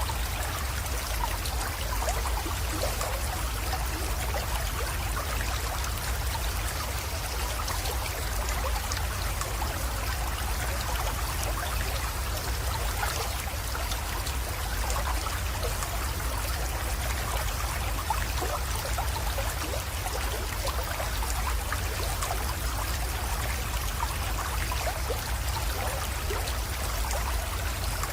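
Small creek water flowing and trickling steadily into a pond, with a continuous babble of small splashes and a low rumble underneath.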